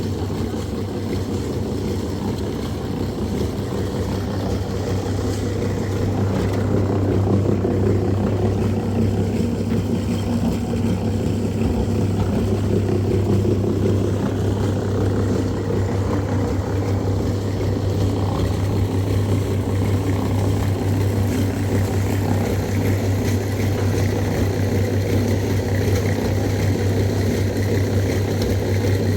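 An engine or motor running steadily at an even speed, with a strong low hum that stays level.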